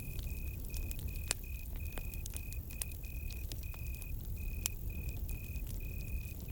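Campfire crackling with sharp scattered pops over a low steady rumble, while a cricket chirps in short, even high-pitched pulses about three times a second.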